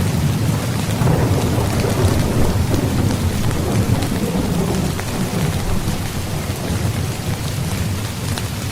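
Heavy rain falling steadily, with scattered sharper drop hits and a low rolling rumble of thunder that swells about a second in and eases off after the middle.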